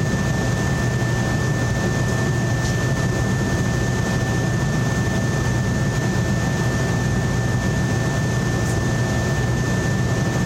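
A steady machine hum with a constant high-pitched whine above it. It stays even throughout, with no strokes or changes.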